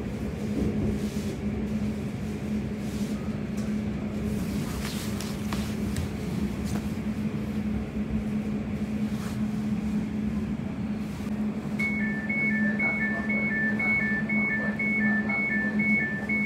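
Interior of a Class 345 electric train running with a steady low hum and rumble as it slows into a station. About twelve seconds in, a rapid two-tone beeping starts, alternating high and low about twice a second: the train's door warning tones as it comes to a stand at the platform.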